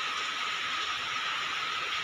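Chicken pieces frying in hot oil in a wok, a steady sizzling hiss.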